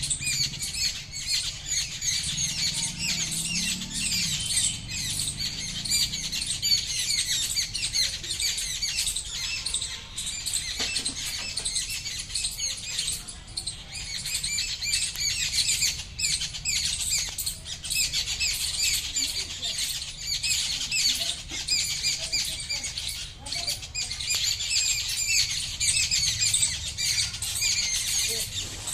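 Many birds chirping and calling together in a dense, continuous chorus of quick high chirps.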